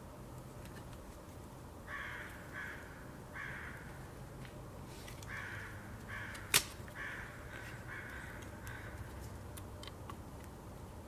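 A crow cawing, a loose series of about eight harsh caws, alongside faint ticking of a burning campfire. One sharp crack, the loudest sound, comes about six and a half seconds in.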